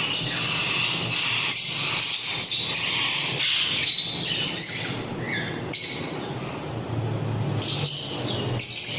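A mixed flock of pet parrots (ringnecks, cockatiels, lovebirds and budgies) chirping and squawking together in a steady, overlapping chatter.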